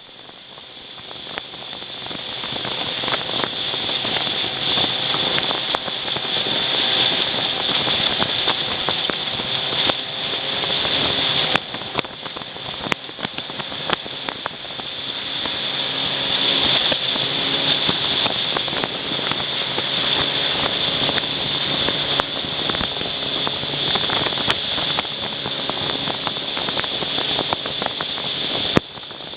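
Mekong fast boat (speedboat) running at speed: a steady engine drone under heavy rushing wind and water noise, building up over the first couple of seconds. A few sharp knocks come through, the strongest near the end.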